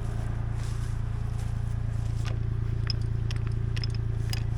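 Kubota L2501 compact tractor's three-cylinder diesel idling steadily, with a few light clicks and scrapes of handling between about two and four and a half seconds in.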